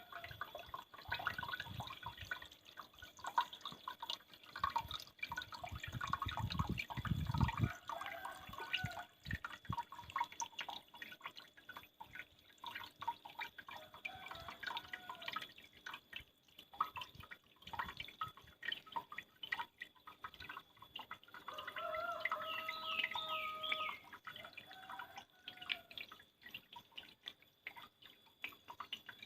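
Water dripping and splashing down a small homemade mini waterfall: a quick, irregular patter of drops.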